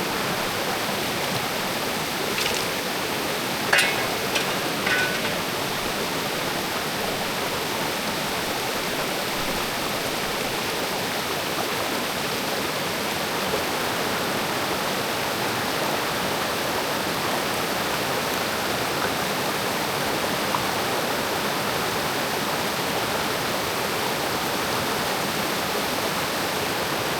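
Mountain creek water rushing steadily, with a few brief knocks or scrapes about three to five seconds in.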